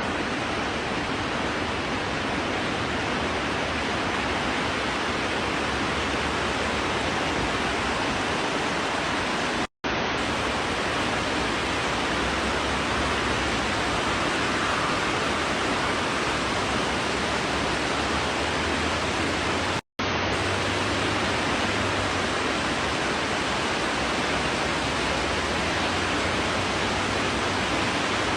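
Steady rushing water, an even hiss with no distinct events, cutting out for an instant twice, at about ten and twenty seconds in.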